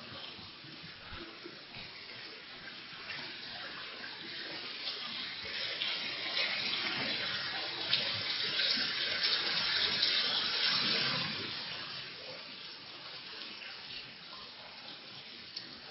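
Heavy rain pouring down in a steady hiss. It grows heavier about five seconds in, then eases off again a few seconds before the end.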